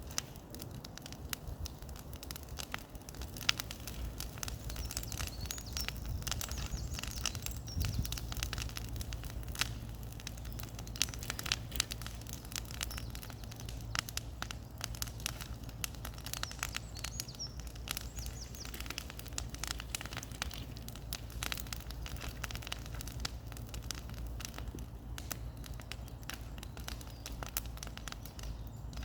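Bonfire burning, with dense irregular crackles and pops over a steady low rumble.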